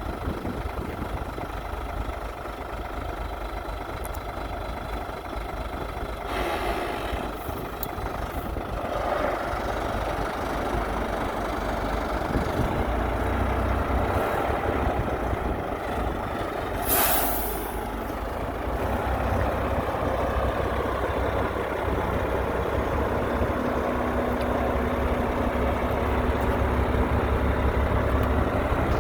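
Heavy diesel engines of dump trucks and earthmoving machinery running steadily, with one short, sharp hiss of air about halfway through.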